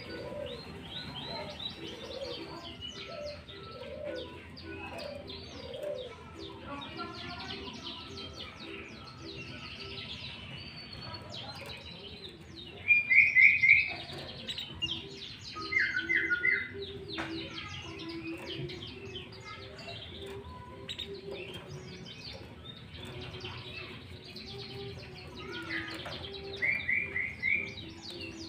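Sooty-headed bulbul (kutilang) calling: three loud, short phrases of three or four quick notes. Behind them, many birds chirp steadily and a low note repeats throughout.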